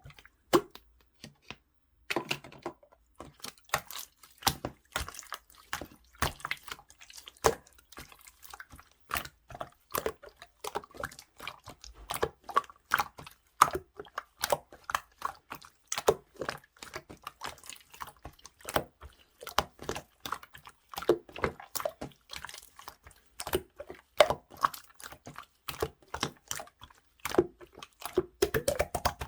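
Watery clear slime being squished and poked by hand, making a steady stream of irregular wet clicks, pops and plops.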